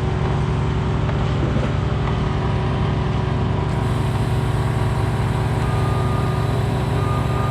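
Engine running steadily at an even speed, with no revving or change in pitch.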